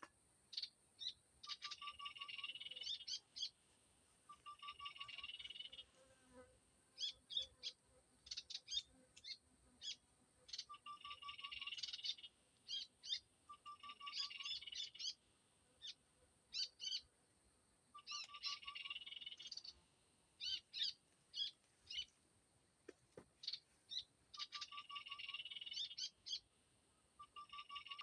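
Small-bird calls played as a lure from an MP3 player: the same phrase, a short low trill followed by rapid high chattering and sharp chips, comes round again and again every few seconds, over a steady high hiss.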